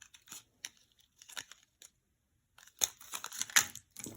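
Crinkling and rustling of plastic with small clicks as pieces of costume jewelry are handled, in short scattered bouts, the busiest and loudest a little before the end.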